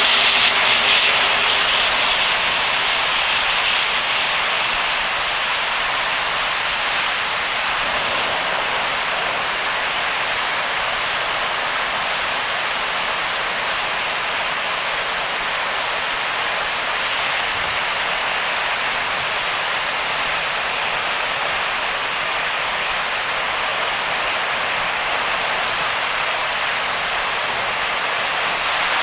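Heavy rain and wet-road tyre spray on a car driving at speed, a steady rushing hiss that is a little louder in the first couple of seconds.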